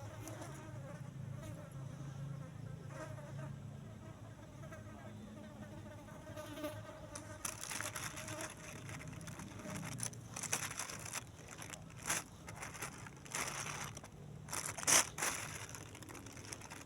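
An insect buzzing close by, steady through the first half. From about halfway on, a run of short rustling, crinkling noises comes in, the loudest near the end.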